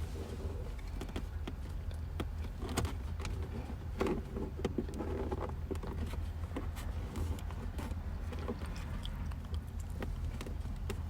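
Hands working EL wire into a car's interior trim: scattered small clicks, taps and rubbing of plastic trim, a few firmer knocks about four to five seconds in, over a steady low hum.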